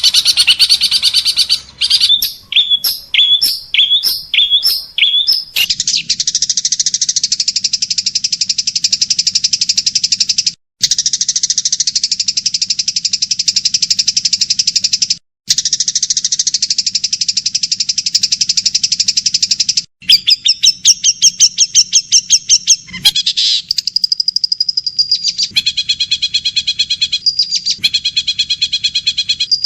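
Recorded songbird song edited into a sequence of different birds: a run of separate chirps, then a long dense rapid trill broken by brief cuts, then repeated rising notes, a short held whistle and a fast pulsed call near the end. It is masteran material for tutoring a long-tailed shrike.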